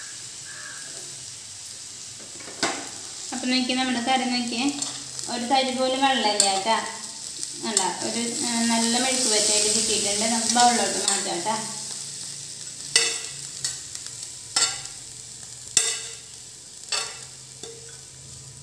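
Food frying and sizzling in a pan while it is stirred, with a steady hiss. The spoon scrapes and knocks against the pan several times in the second half.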